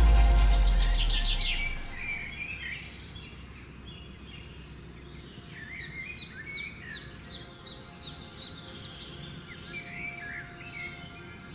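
Yellow-vented bulbuls calling at the nest: lower warbling calls, then a run of quick, high chirps about halfway through. Background music fades out in the first two seconds.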